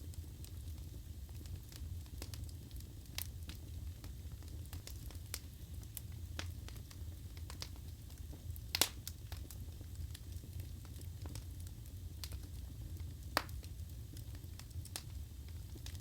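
Wood fire crackling in a fireplace: frequent sharp pops and snaps of burning wood over a steady low rumble, with two louder pops about nine and thirteen seconds in.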